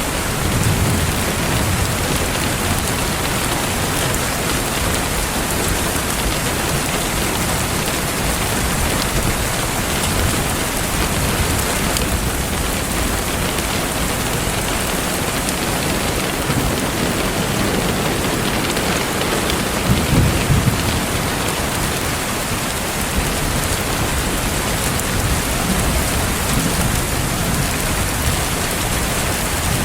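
Steady rain with a fireplace crackling, and a few low rumbles that swell and fade near the start, about two-thirds of the way in and near the end.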